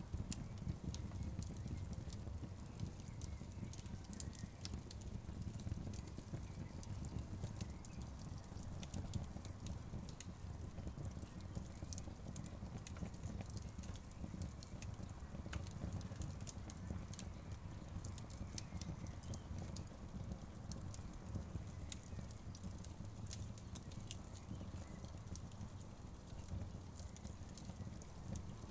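Wood fire burning in an outdoor fireplace, logs crackling with frequent irregular sharp pops over a steady low rumble.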